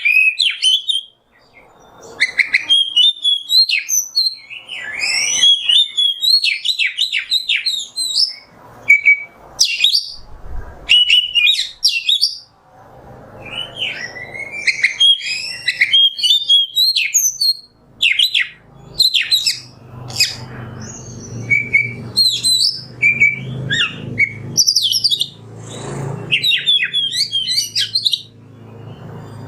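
Oriental magpie-robin (kacer) singing a fast, varied run of loud chirps, whistles and rattling phrases, with short breaks between bursts.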